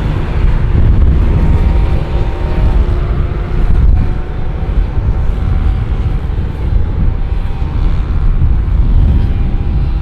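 Jet airliner's engines producing a loud, steady low rumble close by, with a thin whining tone that fades out in the first few seconds.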